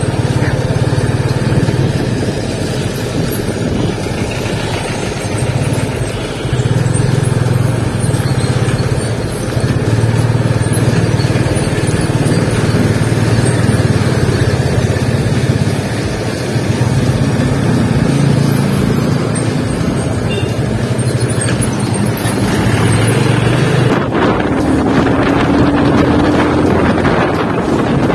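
Yamaha FZ 25 single-cylinder engine running on the move at low speed, its note swelling and easing every few seconds with the throttle. Near the end wind noise on the microphone grows as the bike picks up speed.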